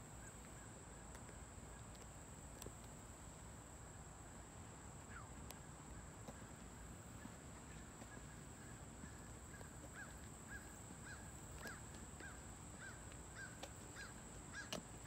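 Faint outdoor ambience: a steady high-pitched insect drone. From about two-thirds of the way in, a bird calls in a run of short, evenly spaced chirps, about two a second.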